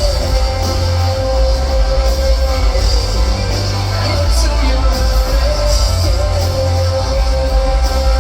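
Live rock band playing loud, with heavy bass and drums and one note held steady throughout; a few cymbal crashes ring out.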